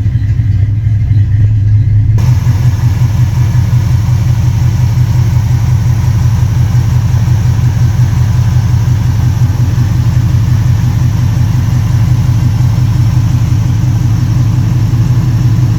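1968 Ford F-100 truck engine running steadily at idle on a cold start, after sitting unrun for a week or two. About two seconds in its sound becomes fuller and louder.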